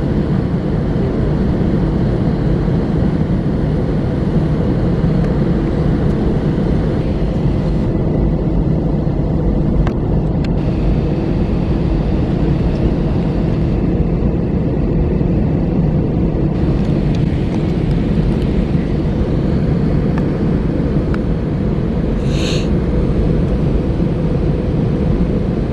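Steady rumble of an Airbus A321 airliner's engines and airframe heard inside the passenger cabin, holding an even level throughout. Near the end a brief high tone sounds over it.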